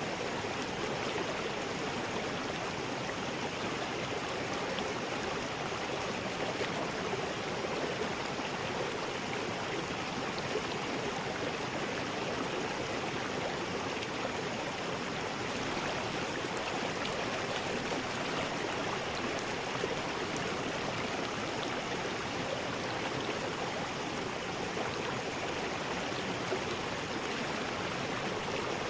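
River rapids: fast water rushing and churning over rocks in a steady, unbroken rush.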